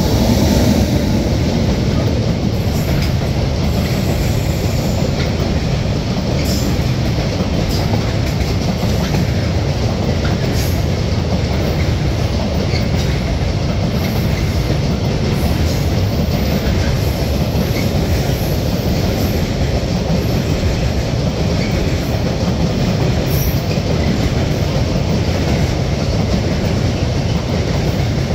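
FS E652 electric locomotive passing close at speed, rising in loudness as it arrives, then a long freight train of container wagons rolling past in a steady loud rumble of wheels on rails, with occasional short clicks.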